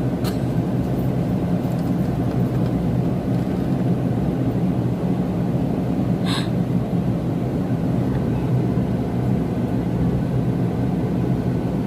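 Steady airliner cabin noise before takeoff: a low rumble and whir from the engines and air systems, with one short hiss about six seconds in.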